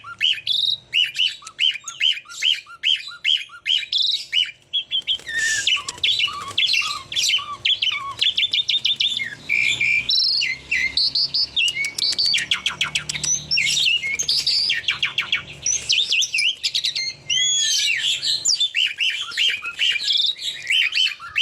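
Asian pied starling (jalak suren) singing without a break: a varied, chattering song that opens with a steady string of repeated notes, about three a second, then moves into fast rattling runs and slurred, curving whistles.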